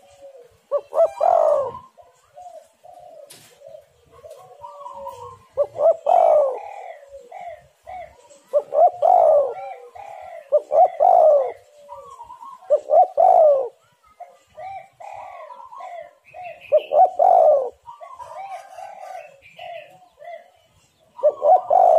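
Spotted doves cooing: loud coo phrases come every two to four seconds, with softer coos and higher chirps between them.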